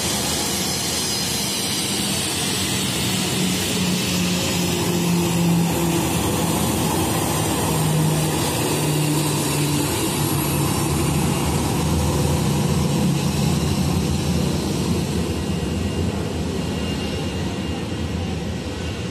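Jet airliner noise: a loud, even rush with low hums that waver slightly in pitch.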